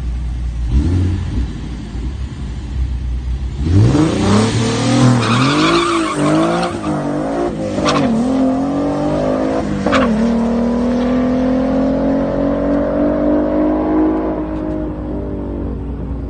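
Ford Mustang's 3.7 L V6 idling, then launching hard about four seconds in and revving up through the gears. Two sharp cracks about two seconds apart fall where the pitch drops at the shifts. The engine then holds a long, slowly rising note that fades as the car pulls away.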